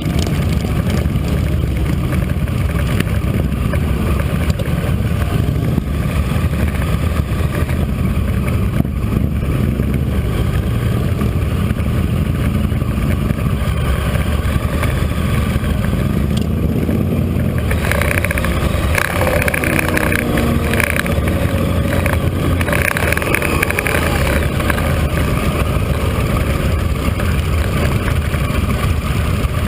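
Motorcycle engine running steadily at low road speed, a deep continuous rumble. About two-thirds of the way through, a brighter, busier layer of sound joins in for several seconds, then fades back.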